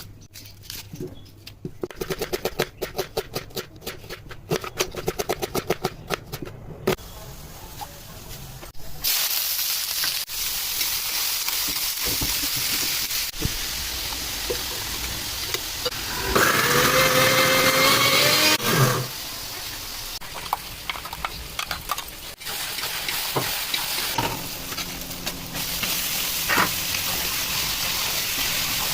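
Rapid clicking for several seconds, then the steady sizzle of food frying in a kadai as it is stirred. Near the middle a loud voice-like sound lasts about three seconds.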